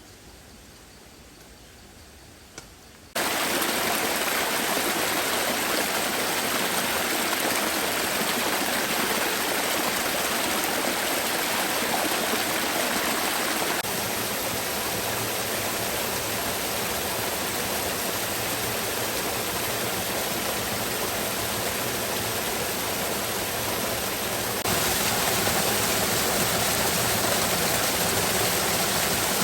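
Heavy rain falling as a steady, dense hiss, starting abruptly about three seconds in after a quiet start. It drops slightly in level midway and rises again near the end.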